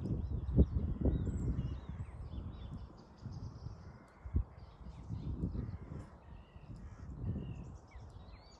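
Birds chirping and calling in a morning chorus, many short sliding notes overlapping, over wind buffeting the microphone in gusts. The gusts are loudest in the first second and ease off toward the end.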